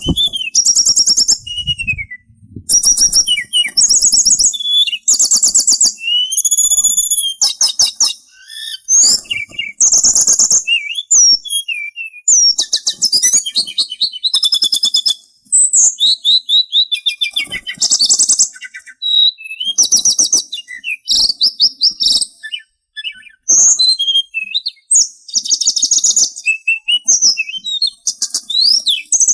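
A sulingan songbird singing a fast, varied song of high-pitched trills, slurred whistles and rapid chattering notes. It comes in bursts of a second or two with short pauses between them.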